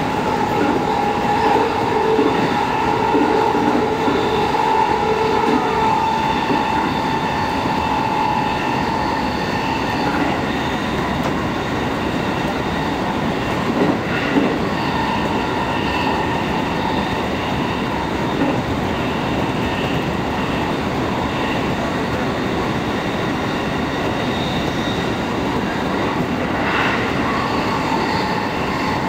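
Commuter train running, heard from inside the car: a steady rumble and rattle of wheels on rails. A steady whine fades out after the first several seconds, and there is a single louder knock about halfway through.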